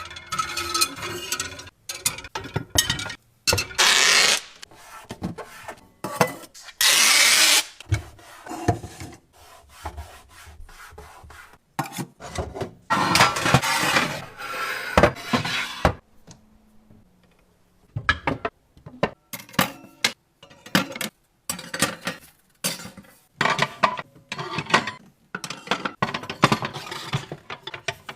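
Groceries and containers being handled while a fridge is restocked: a run of knocks, clicks and taps of items being set down, with a few longer rustling, rubbing stretches, the longest near the middle.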